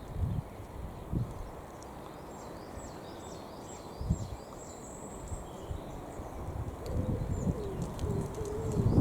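A pigeon cooing low and wavering in the last couple of seconds, over repeated high chirps of small birds, with a few low thumps early on.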